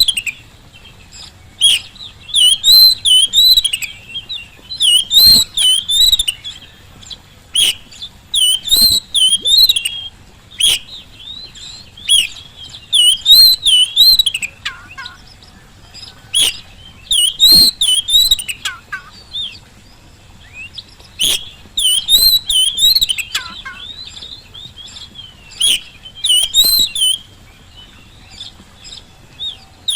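Oriental magpie-robin (kacer) singing: short, wavering warbled phrases repeated every second or two, with sharp clicking notes in between.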